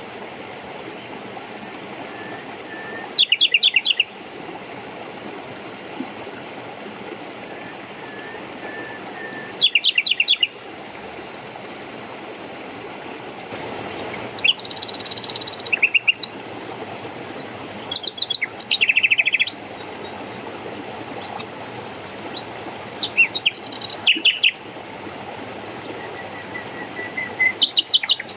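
Small birds chirping in short, fast trills every few seconds, with a few faint whistled notes between, over the steady rush of flowing water.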